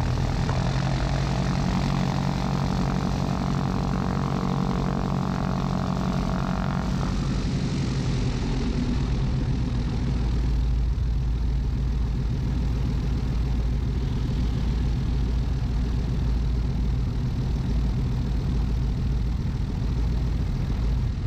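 Piper PA-34 Seneca's twin piston engines and propellers running steadily at low power, heard from inside the cockpit. For the first several seconds a higher droning tone rides on top, stopping about seven seconds in.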